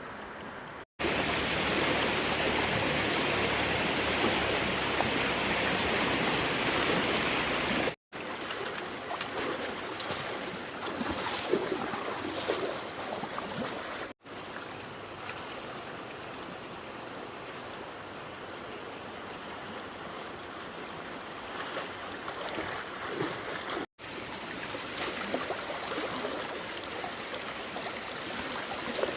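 Rushing water, heard in several short edited clips: the first is loudest and the later ones quieter, with scattered short splashy sounds.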